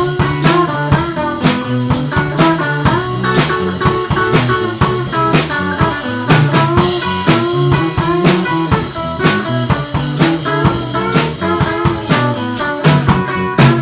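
Live blues band playing an instrumental passage: guitar lines over a drum kit keeping a steady straight eight-beat.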